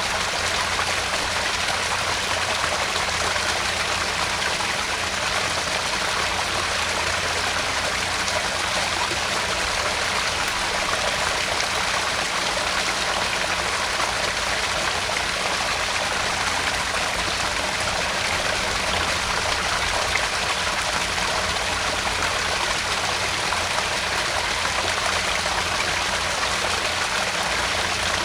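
Small garden pond waterfall: water spilling and splashing steadily into the pond in an even, unbroken rush.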